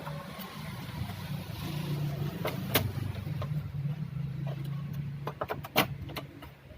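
A motor running with a steady low hum that grows louder toward the middle and fades near the end, with several sharp clicks and knocks over it.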